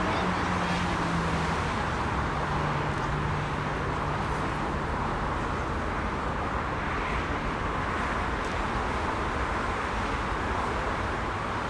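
Steady jet engine noise from a Boeing 747-400 on landing. A low hum in the first few seconds drops slightly in pitch and fades as the aircraft moves past.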